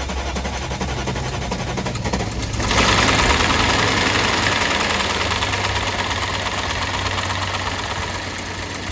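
BMW M62 V8 running just after start-up, an engine whose timing chain guides have failed. It steps up louder about three seconds in, then settles back slowly.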